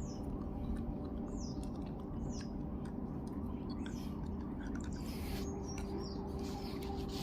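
Small bird chirping repeatedly: short, high calls that drop in pitch, about one a second, over a steady low hum. A brief rustle or scuff about five seconds in.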